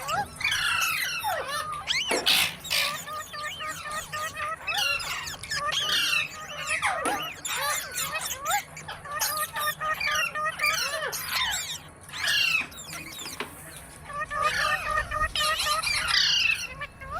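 Several rose-ringed (ringneck) parakeets squealing and squawking together, with quick rising and falling shrieks overlapping and runs of short repeated chattering notes.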